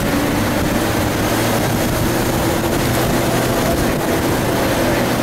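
Off-road 4x4 vehicle's engine running at a steady pitch as it drives, under a constant rushing noise.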